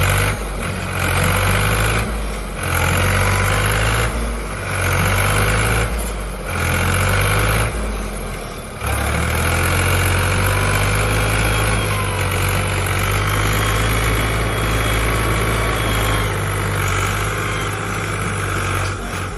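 Tractor engine working hard under load. For the first half it surges and eases about every two seconds, then it holds a steady high pull.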